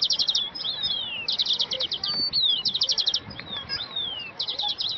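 Songbirds singing: short rapid trills recurring about four times, with quick downslurred whistled notes in between.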